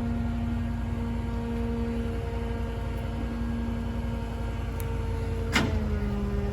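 A heavy engine running steadily with a pulsing rumble and a droning whine. A sharp knock comes about five and a half seconds in, after which the whine settles slightly lower in pitch.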